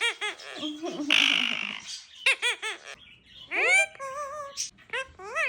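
Indian ringneck parrot chattering in a string of short chirps, with a loud harsh squawk about a second in, followed by a rising whistle and wavering warbled notes.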